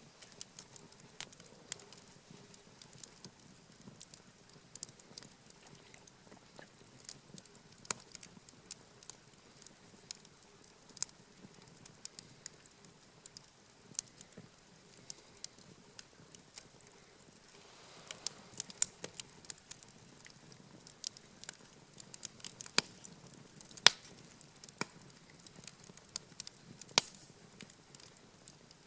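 Wood campfire crackling, with irregular sharp pops and snaps, busier and louder in the second half.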